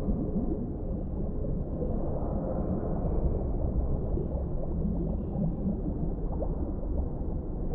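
Underwater ambience: a steady low rumble with frequent small bubbling gurgles, each a quick rising chirp.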